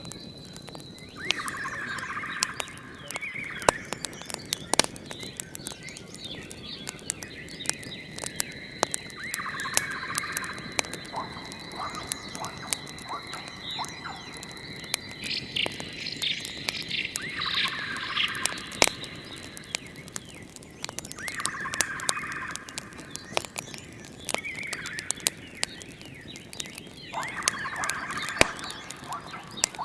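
Wood fire crackling, with many sharp pops and snaps scattered throughout. Behind it runs a night-time nature ambience: a trilling animal call about every four to six seconds, and a thin high steady tone that stops about two-thirds of the way through.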